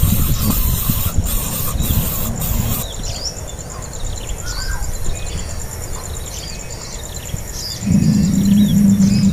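Nestling birds cheeping in a run of short, quick calls from about three seconds in, after some rustling and knocking at the start. A steady low hum comes in near the end.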